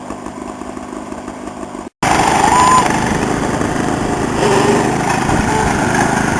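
Modified lawn tractor's engine running steadily. The sound drops out briefly about two seconds in and comes back louder.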